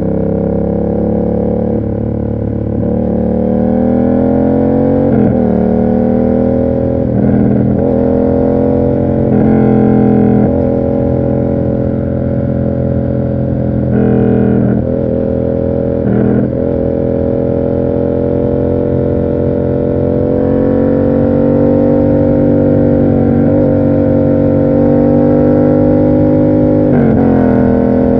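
Yamaha MT-07's 689 cc parallel-twin engine through an SC Project aftermarket exhaust, heard from the rider's seat. It accelerates through several upshifts in the first ten seconds, its pitch climbing and falling back at each shift. It then holds a steady cruise, and dips briefly near the end.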